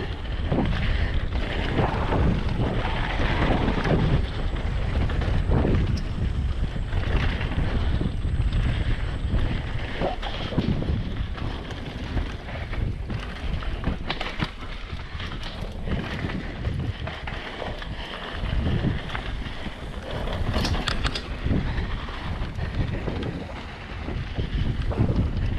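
Wind buffeting the microphone as a hardtail mountain bike rides fast down a rough dirt trail, with the tyres rumbling over bumps and the chain rattling and clacking.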